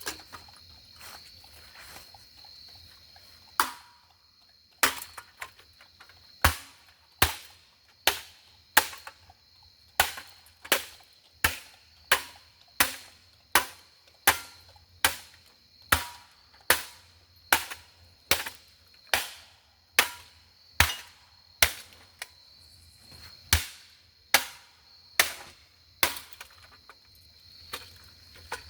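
A golf club striking a ceiling fan over and over: about 25 sharp hits, roughly one every 0.8 s, starting a few seconds in and stopping near the end. Crickets chirp steadily in the background.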